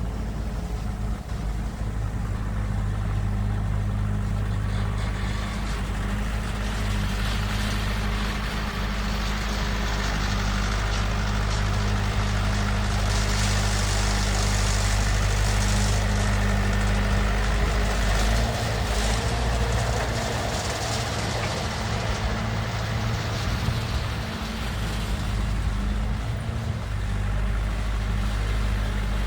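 Crawler dozer's diesel engine running steadily while it works the ground, with a rise in clatter and hiss through the middle and brief shifts in engine note about two-thirds of the way through and near the end.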